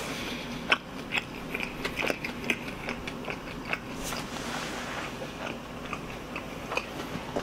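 A person chewing fried chicken with the mouth close to the microphone: irregular crunching clicks and wet mouth sounds.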